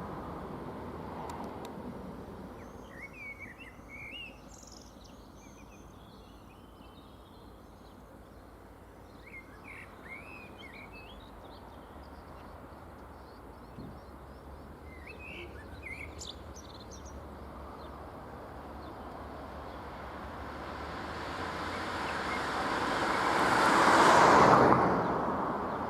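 Small birds chirping in short, repeated calls over outdoor background noise, then a passing vehicle's noise swells to a peak near the end and fades.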